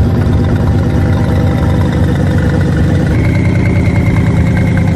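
Chevrolet CERV III concept's twin-turbo LT5 V8 running at low speed with a steady, low engine note. About three seconds in the sound shifts, and a steady high whine joins the engine.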